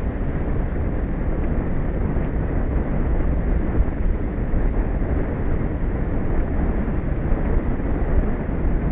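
Steady low rushing of wind and sea on an outdoor microphone high over the open ocean, even throughout with no distinct events.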